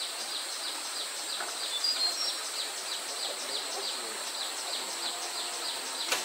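Insects chirping in a steady rhythm, about four or five high pulses a second, over a constant high-pitched buzz. A few short bird chirps come about two seconds in, and a single sharp click near the end.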